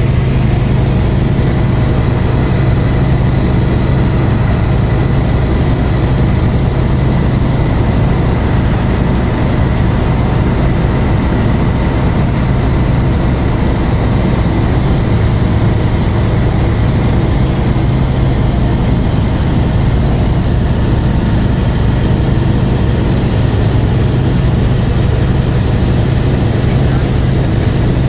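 Light aircraft engine running steadily in flight, a constant loud drone with a strong low hum, heard from inside the cabin.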